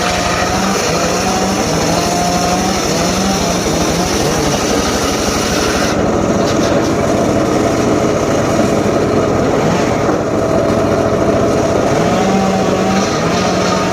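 A small engine-powered saw running steadily at high speed, used for cutting teak, with its engine note stepping up and down in pitch.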